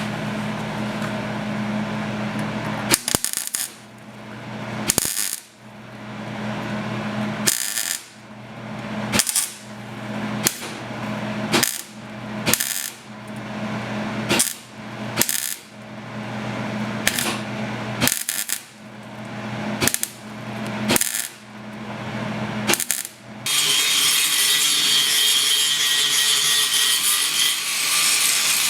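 Welder stitch-welding a sheet-steel rust patch onto a car body panel in a run of short bursts, about one to two seconds apart, each starting with a sharp crack. Near the end a steady, higher hiss takes over.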